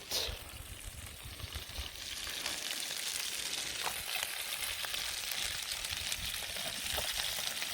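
Chicken breast sizzling in a pan over a campfire: a steady frying hiss with a few faint pops and crackles, a little louder from about two seconds in.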